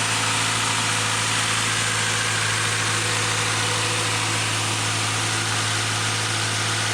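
Subaru XV flat-four boxer engine idling steadily.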